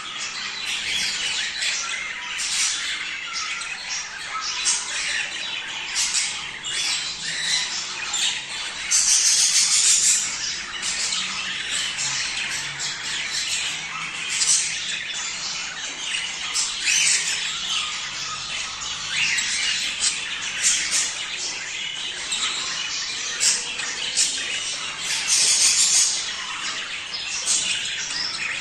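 Budgerigars chattering and warbling steadily, with louder harsh squawks about nine seconds in and again near the end.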